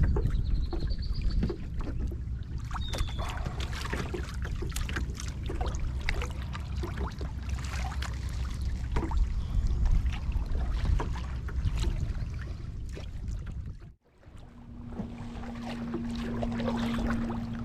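Kayak paddling: paddle strokes with water splashing and dripping, over a low rumble of wind on the microphone. The sound cuts out briefly near the end, after which a steady low hum comes in.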